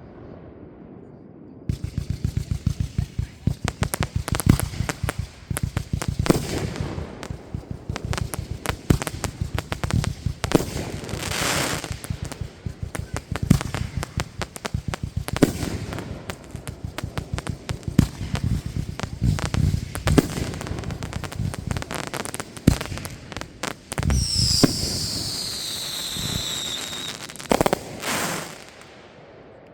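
Fireworks going off in a long, dense barrage of rapid cracks and bangs starting about two seconds in. Near the end, several whistles fall in pitch over the top of the crackling.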